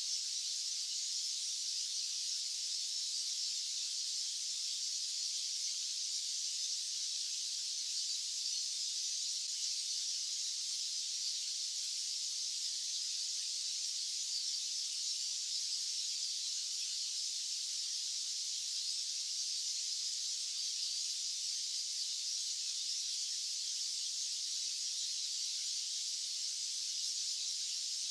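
Steady white-noise hiss, high-pitched and without any low rumble, unchanging in level or character.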